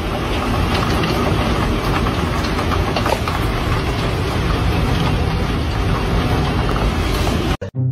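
Heavy rain falling steadily: a dense, even hiss with scattered faint ticks of drops, which cuts off abruptly near the end.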